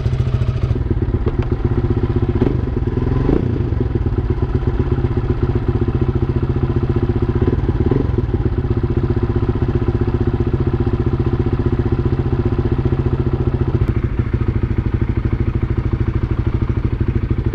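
Big-bike motorcycle engine idling steadily, freshly filled with Motul 300V oil and running a little quieter on it.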